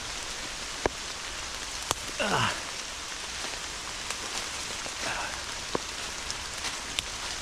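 Steady heavy rain falling on the woods, with large drops tapping close by a few times as sharp ticks. Just after two seconds in there is a short falling voice-like sound.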